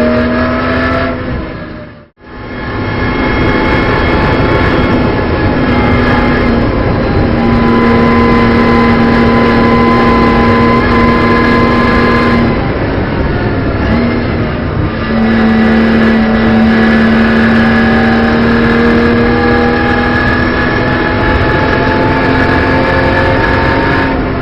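In-car sound of a BMW M240i Racing Cup car's turbocharged straight-six engine driven hard, holding a steady high note for long stretches at full throttle with a few shifts in pitch as it changes gear. The sound drops out sharply for a moment about two seconds in.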